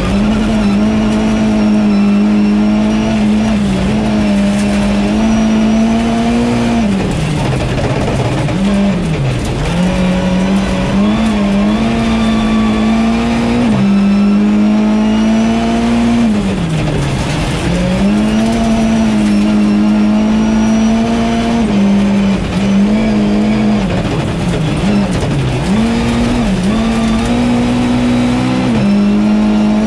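Volvo 940 EVO rally car's engine heard from inside the cabin, held at high revs at full throttle over a gravel stage. The engine note drops sharply and climbs back again several times, around a third of the way in, near the middle and again in the last quarter.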